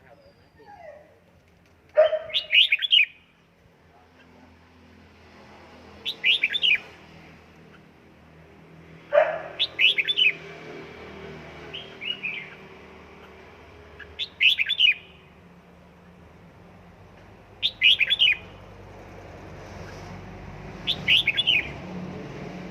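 Red-whiskered bulbul singing short phrases of quick, clear whistled notes, a burst about every three to four seconds, seven times.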